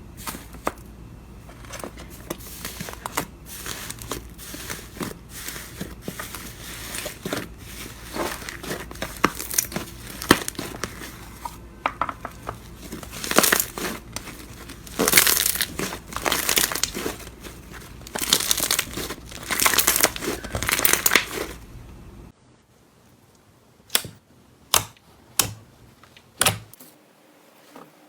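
Slime being worked by hand, giving a dense run of crackling, crinkling pops. About 22 seconds in it cuts to a quieter clip with single sharp pops, roughly one a second.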